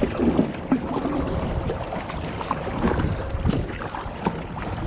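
Wind buffeting the microphone over choppy river water slapping and splashing around a kayak.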